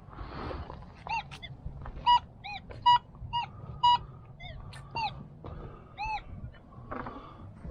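Geese honking repeatedly, about a dozen short, loud honks, some rising and falling in pitch, over a low background rumble. A brief crunchy rustle comes right at the start.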